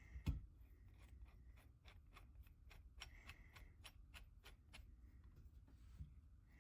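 A knock, then a run of faint light clicks, about three or four a second, from metal tool parts being handled while a valve spring compressor tool is assembled.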